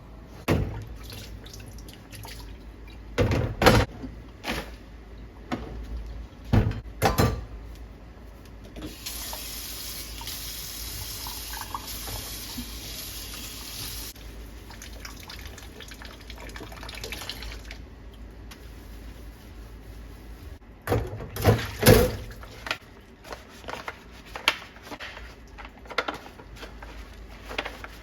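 Tap water running into a sink for about five seconds, then trailing off. Sharp knocks and clatter of handled objects come before it and again about 21 seconds in.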